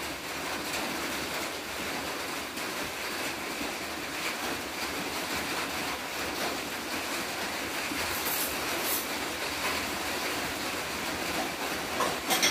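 Rain falling steadily on a corrugated metal roof, a constant hiss with no let-up. A few faint clicks come through around two-thirds of the way in.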